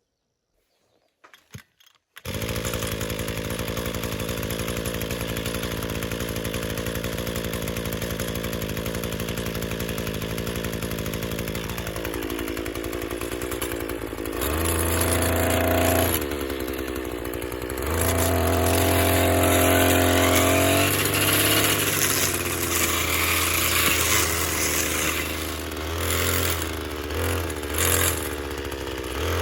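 A small motor comes in abruptly about two seconds in and runs steadily. From about halfway its pitch drops and then rises and falls in stretches, as if working under changing load.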